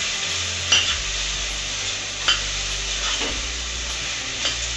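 Diced vegetables and paneer sizzling steadily in oil in a stainless steel pot as a metal spatula stirs them, knocking against the pot three times.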